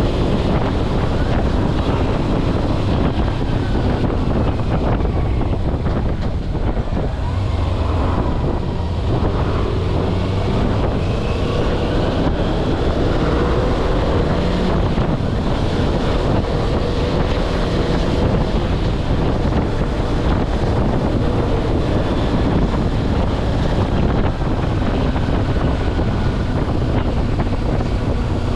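Kawasaki Versys-X 250's parallel-twin engine running under way, its pitch rising and falling gently with the throttle, under heavy wind buffeting on the microphone.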